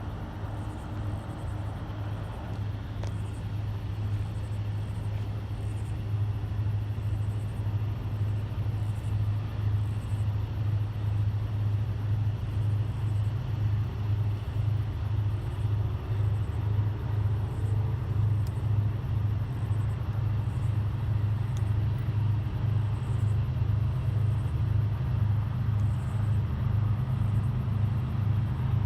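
Diesel-electric freight locomotives approaching: a low, steady engine rumble that grows gradually louder and takes on an even throb in the second half.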